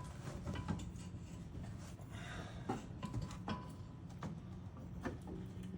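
Scattered light clicks and knocks of tools and suspension parts being handled, over a steady low hum.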